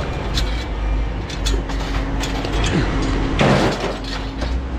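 Scrap metal being unloaded: sharp clanks and knocks, with one loud crash of metal about three and a half seconds in, over the steady hum of an engine running.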